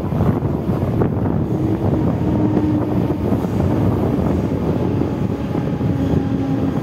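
Wind buffeting the microphone over the steady running rumble of a Mumbai EMU local train, heard from its open doorway as it rolls into a station. A faint steady tone rises above the noise briefly, once a second or two in and again near the end.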